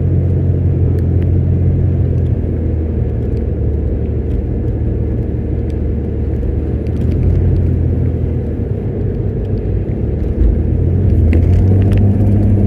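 A motor vehicle on the move: a steady low engine and road drone whose pitch shifts slightly a couple of times and grows a little louder near the end.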